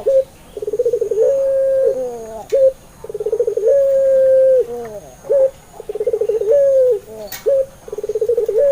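Puter pelung turtle dove cooing in repeated phrases. Each phrase is a quick stuttering run of notes, then a long held coo that drops in pitch at the end. Short single coos come between the phrases.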